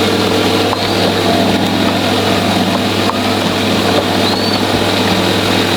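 An engine running steadily at a constant speed, a low even drone throughout.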